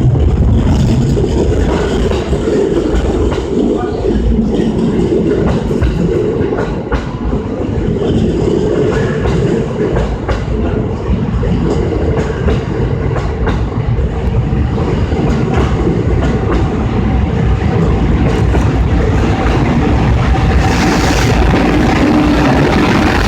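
Cassiopeia sleeper train's coaches rolling past at low speed, with a steady rumble and wheels clicking over rail joints.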